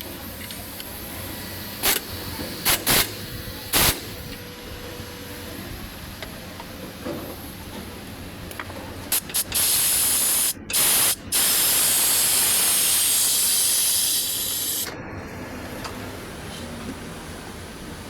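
Hissing spray of compressed air or an aerosol can: four short blasts within the first four seconds, then after a pause a long spray of about five seconds, broken twice for a moment.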